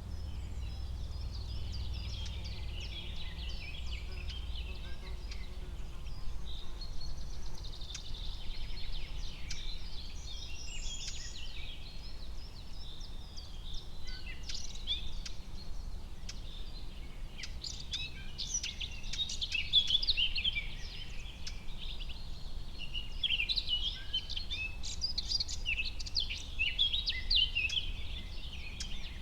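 Forest ambience: many small birds chirping and trilling over one another, busier in the second half, over a steady low rumble.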